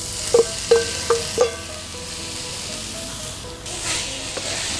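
Diced shrimp-and-pork dumpling filling sizzling as it hits hot oil in a non-stick frying pan and is stir-fried with a wooden spatula, a steady sizzle throughout. A few sharp, briefly ringing knocks of utensils against the pan come in the first second and a half.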